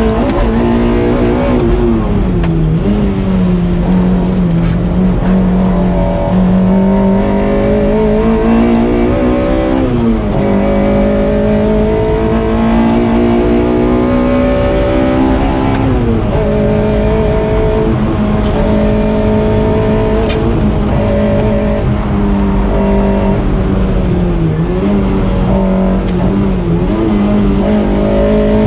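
Toyota MR-S's swapped-in 2ZZ-GE four-cylinder engine, heard from inside the car under hard acceleration. The engine pitch climbs, drops abruptly about ten and again about sixteen seconds in as gears change, then holds fairly steady with brief dips as the throttle is worked.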